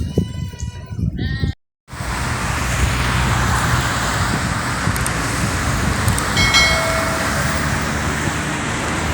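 Sheep bleating, cut off suddenly; after a brief silence a steady rushing noise takes over, with one short tone about six and a half seconds in.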